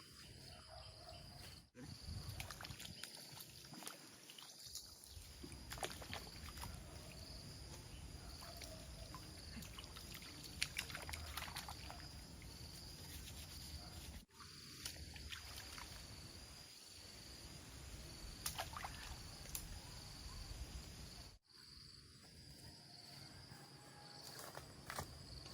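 Faint outdoor ambience: a steady low rumble under a thin, high-pitched pulsing tone, with scattered small clicks and rustles.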